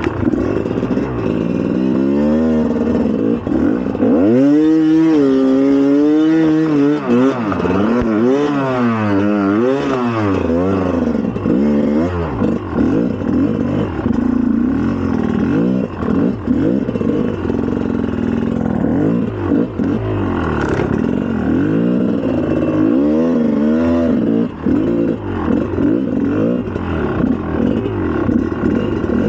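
2004 GasGas EC300 two-stroke enduro bike's single-cylinder engine being ridden off-road, revving up and down again and again as the throttle is worked.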